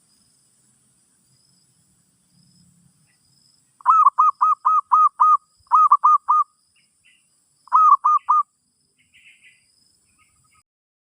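Zebra dove (merbok) calling: three runs of quick, clipped cooing notes, about six, then four, then three, starting about four seconds in.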